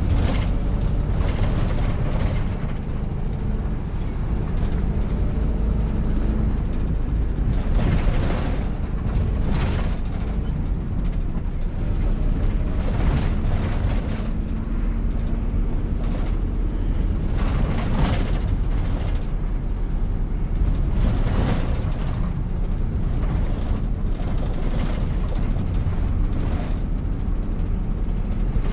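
City bus running on the road: a steady low rumble of engine and tyres, with a faint hum that comes and goes and repeated clatters and knocks from the body, several of them sharp.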